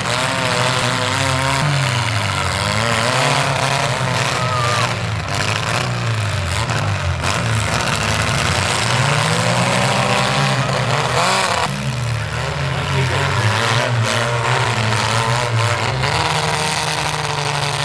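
Engines of several compact demolition-derby cars revving up and easing off again and again, their pitches rising and falling over one another, over a steady background of noise.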